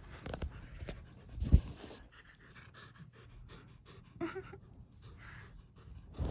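A dog panting close by, with one sharp knock about a second and a half in.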